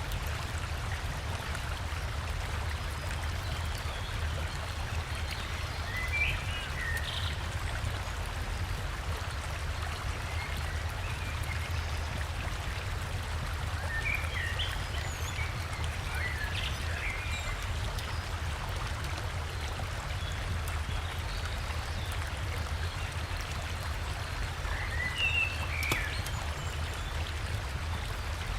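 Steady rush of a forest river or stream, with a low rumble underneath. Short bird chirps come in three brief clusters: about six seconds in, around fifteen seconds, and near twenty-five seconds.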